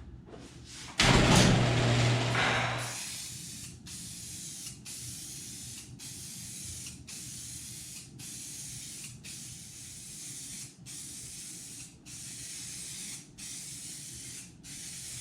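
Aerosol can of clear coat spraying in a long series of short hissing bursts, roughly one a second, with brief pauses between them. About a second in, a loud rumble lasts about two seconds before the spraying starts.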